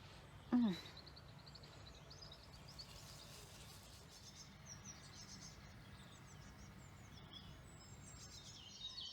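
Small birds singing faintly, a run of short high chirps and trills, over a steady low background hum. A brief voice sound comes about half a second in.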